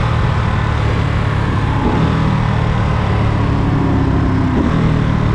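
Ducati Monster 937's V-twin engine running steadily at low revs, its pitch shifting slightly about two seconds in and again near the end.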